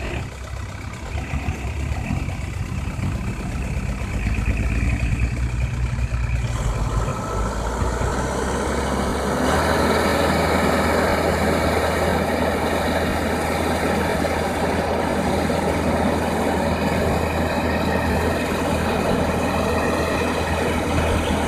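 Heavy diesel engine of an excavator working a load, with the dump truck's engine alongside. It grows louder and fuller about a third of the way in and again just before halfway, then holds a steady, heavy running sound.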